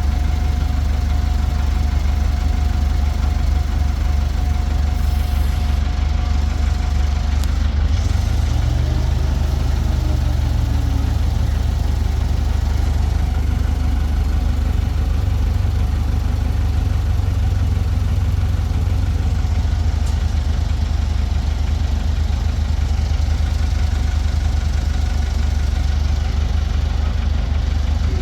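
Forklift engine running steadily, with a brief rise in pitch about eight seconds in.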